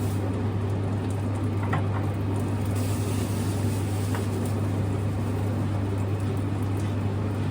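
A steady low hum over an even background noise, with a faint click or two.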